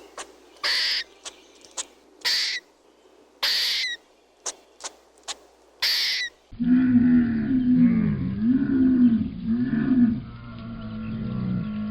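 Animal sounds: a few short hissing or breathy bursts in the first half, then, after a sudden change about six and a half seconds in, a low, continuous call whose pitch wavers up and down.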